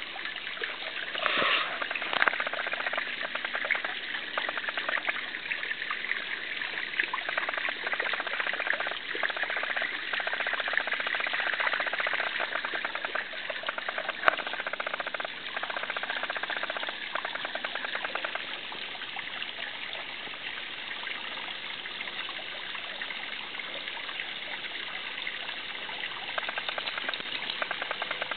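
Water running and splashing continuously. There is a short louder splash about a second and a half in and a single sharp click midway through.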